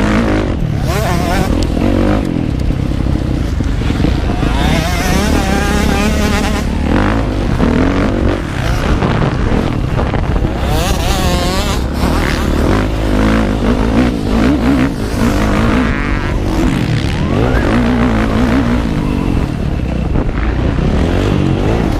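Motocross bike engine revving up and down repeatedly as it is ridden round a dirt track, heard from on board, with noise across all pitches from wind and the ride.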